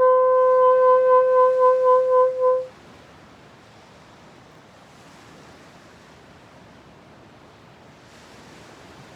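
A single wind-instrument note steps down in pitch and is held with a pulsing wobble, stopping about two and a half seconds in. After it only a soft, steady rushing noise remains.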